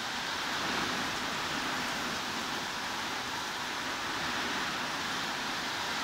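Steady heavy rain, an even hiss with no single drops or other sounds standing out.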